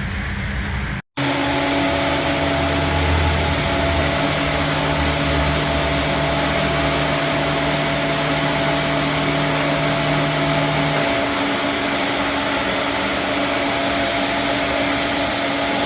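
A motor running steadily with a constant whir and hum, after an abrupt cut about a second in.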